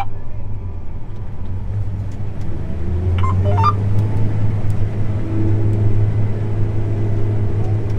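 Steady low drone of a John Deere S690 combine harvester running.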